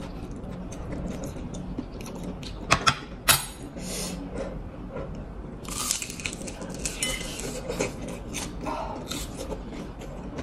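Biting into and chewing a crispy fried lumpiang togue spring roll up close: a few sharp, loud crunches about three seconds in, then chewing with many small crunches.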